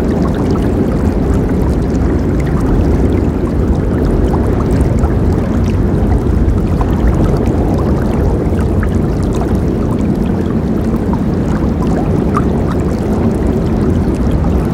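River water flowing steadily, a low even rush with many small splashes and gurgles scattered through it.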